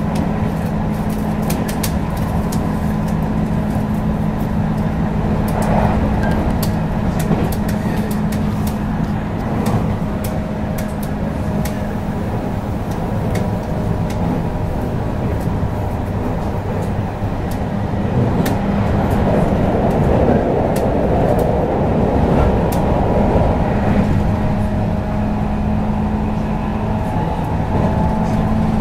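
Running sound inside a JR West 221 series electric train as it cruises between stations: a steady rumble of wheels on rail under a constant hum. Scattered light clicks and rattles come through mostly in the first half.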